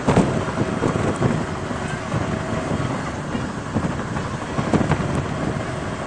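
Passenger train running at speed, heard from an open carriage window: a steady rumble of the wheels on the track mixed with wind buffeting the microphone, with a few short knocks at intervals.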